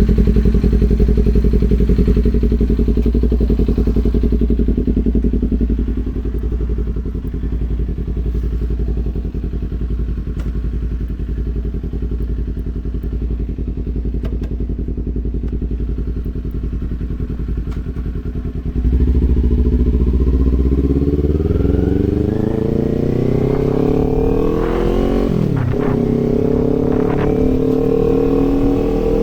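Kawasaki Z400 parallel-twin engine idling steadily, then pulling away about two-thirds of the way through. The revs climb, drop sharply at an upshift and climb again, with another shift near the end.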